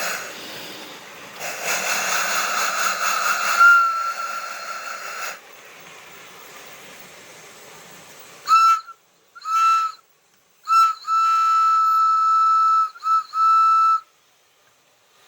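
Steam-locomotive sound of a Märklin HO model train: a loud hiss of steam for about five seconds, then the steam whistle sounding two short toots, a long blast and a final short toot on one clear pitch.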